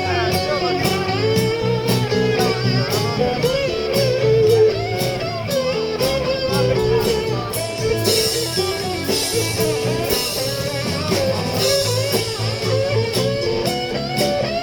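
Live blues-rock band playing an instrumental break: electric guitar lead over bass and drum kit, with cymbals washing more heavily from about eight to twelve seconds in.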